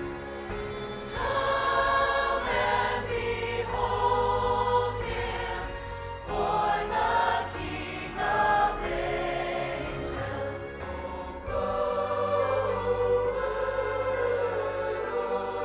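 Church choir singing a Christmas song with instrumental accompaniment, in held notes that change pitch every second or so.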